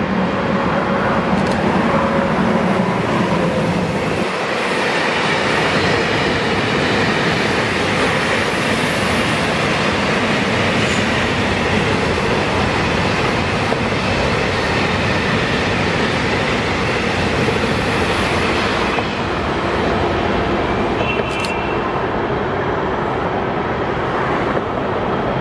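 A freight train hauled by an HXD1C electric locomotive passes close by. A low hum from the locomotive comes first, then the steady rolling rumble of the long string of freight wagons. The noise eases a little about three-quarters of the way through as the end of the train goes by.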